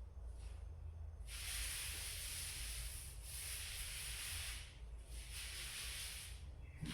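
Paint roller rolling wet paint onto a wall: a sticky hissing in strokes, a long run of strokes and then a shorter one.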